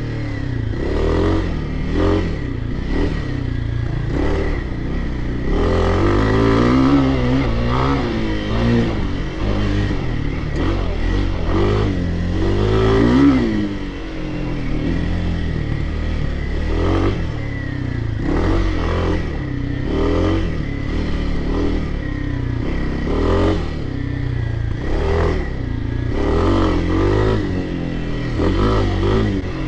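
Dirt bike engine being ridden hard, its pitch rising under throttle and dropping back again and again as it revs through the gears and backs off.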